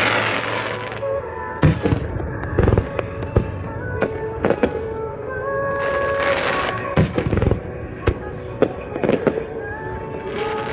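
Starmine fireworks barrage: many aerial shells bursting in quick, irregular succession, with spells of dense crackle near the start and about six seconds in, over background music.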